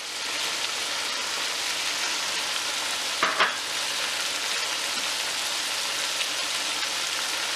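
Chicken pieces and onion paste frying in hot oil in a wok: a steady, even sizzle, with one brief louder sound about three seconds in.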